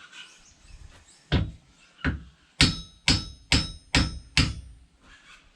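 Seven hammer blows, the last five in a quick even run, each ringing with a metallic tone: a block-splitting maul head being driven onto its new wooden handle.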